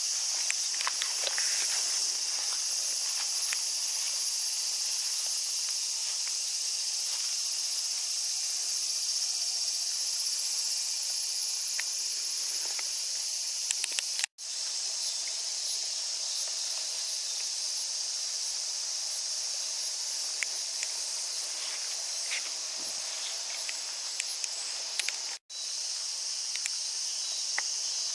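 Steady, high-pitched shrill of a summer cicada chorus in the forest, with faint scattered clicks. The sound cuts out briefly twice, about 14 and 25 seconds in.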